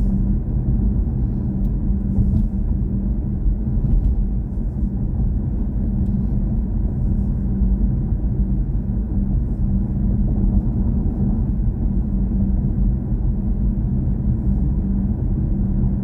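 Steady low road and tyre rumble of a BMW i4 M50 electric car driving at an even pace, with a constant low hum underneath.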